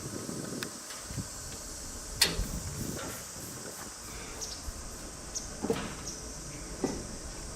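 A few light knocks and clicks, the sharpest about two seconds in and two more near the end, over a steady high insect chirring.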